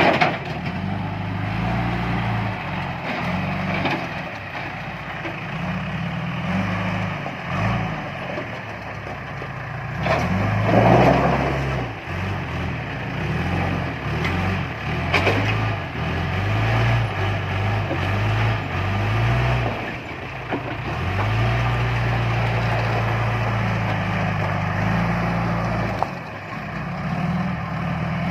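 Diesel engine of a John Deere 310E backhoe loader working, its revs rising and falling again and again as it loads stone. Louder bursts of noise break in about ten and fifteen seconds in.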